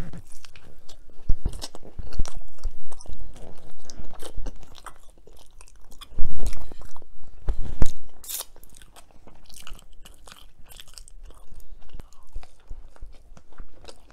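Close-miked biting and chewing of a homemade paleo sope, with irregular crisp crunches. The crunching is loudest about a second and a half in and again between about six and eight seconds in.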